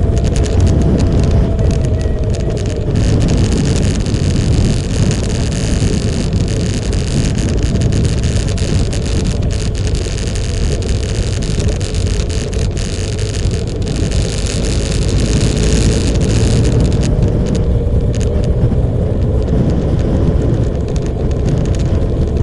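Motorcycle running on the road under a dense, steady rushing noise, with a faint engine note that is clearer near the start and again near the end.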